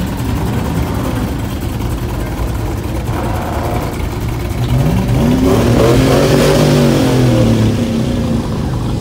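A vehicle engine revving over a background of engines running. Its pitch climbs about halfway through, holds high for a couple of seconds, then drops back down near the end.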